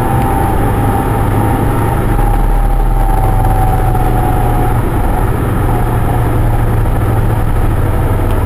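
Steady drone inside a car driving through a blizzard: engine and road noise mixed with wind pushing on the body. A thin steady tone sits over it and fades out about five seconds in.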